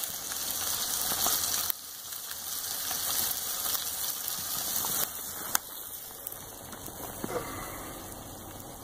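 Breakfast frying on a portable propane camp grill: eggs in a pan and meat on the grate sizzling with a steady hiss and a few pops. It steps quieter about two seconds in.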